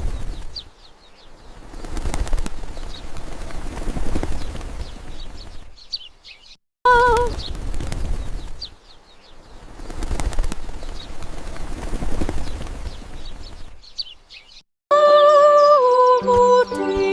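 Small birds chirping in short high calls over a pattering rush of noise that swells and fades. The same few seconds play twice, and music with held, stepping tones starts near the end.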